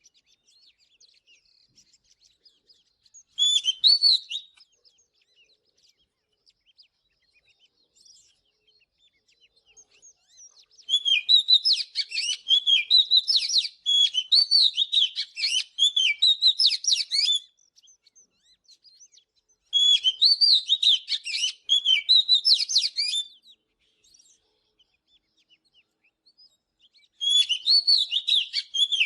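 Oriental magpie-robin singing: bursts of rich, varied whistled phrases, one short, then a long run of several seconds, then two more a few seconds apart, with faint calls in the gaps.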